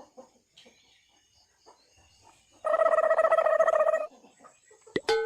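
Myna chick giving one harsh, rapidly pulsing begging call lasting about a second and a half. A sharp click and a short ringing tone follow near the end.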